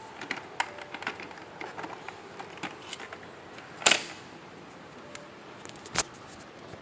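Scattered light clicks and taps, with two louder sharp knocks about two seconds apart in the second half.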